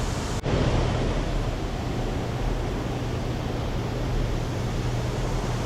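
Steady rushing noise of wind and water with a low, even hum beneath it, with a brief drop-out about half a second in.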